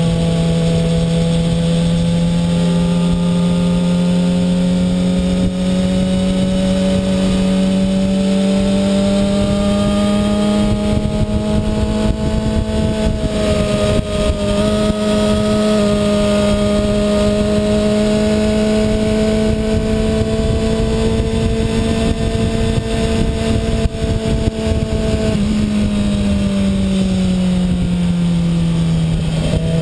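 2007 Kawasaki ZX-6R's inline-four engine running at high revs under way, its pitch creeping slowly upward for most of the stretch, then dropping off over the last few seconds as the bike slows. Wind rush runs underneath.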